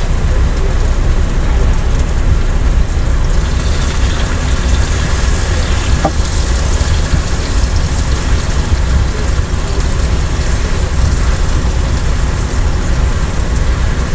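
Ground beef sizzling in a frying pan, the hiss growing brighter a few seconds in, over a steady low rumble.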